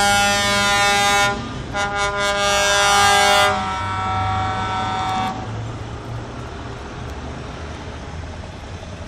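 Truck air horns blowing: a long blast that stops just over a second in, a second blast from about two seconds to three and a half, a fainter horn tone that ends about five seconds in. Then only the low rumble of truck engines running.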